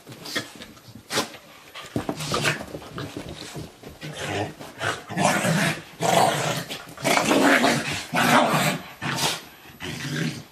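Two dogs play-fighting, growling in repeated rough bursts that get louder and more continuous about halfway through.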